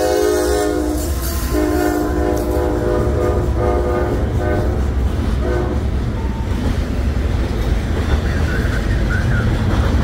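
Freight locomotive horn sounding a long blast, then a second blast and a few shorter ones that fade out by about five seconds in. Under it and after it, the steady low rumble and wheel clatter of double-stack intermodal container cars rolling past.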